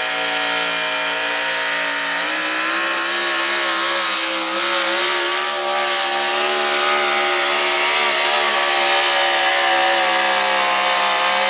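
Modified pulling truck's engine held at high revs under load with a steady pitch, stepping up slightly about two seconds in.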